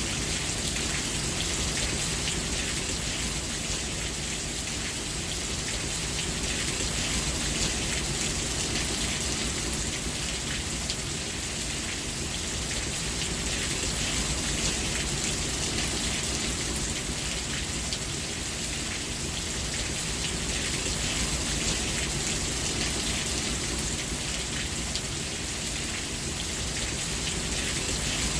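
Steady rain falling, an even hiss with fine drop patter on surfaces.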